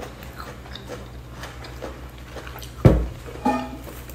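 Close-miked chewing of a mouthful of lettuce leaf, with small wet mouth clicks. About three seconds in comes one heavy thump, then a short pitched sound.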